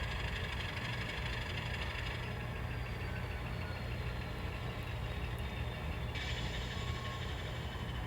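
N scale Alco diesel locomotive's onboard sound playing a steady diesel engine rumble as the model moves.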